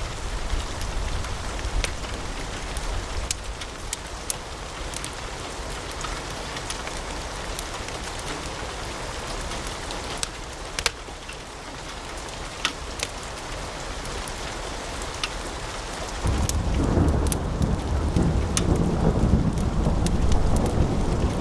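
Wood fire crackling in a fireplace, a steady hiss with many scattered sharp pops. About 16 seconds in, a louder low rumble sets in and stays to the end.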